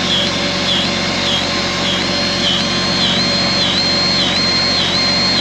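Battery-powered grease gun running, its motor whining with a regular dip about twice a second as it pumps grease into a skid steer fitting.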